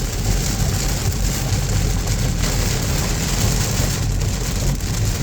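Heavy rain on a Chevy car, heard from inside the cabin with the engine running: a steady wash of rain noise over a low, even engine hum.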